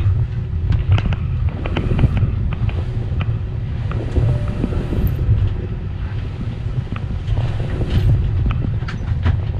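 Airbus A320 cabin noise while taxiing: a steady low rumble from the engines and rolling gear, with frequent short knocks and rattles from the cabin, and a faint steady hum underneath.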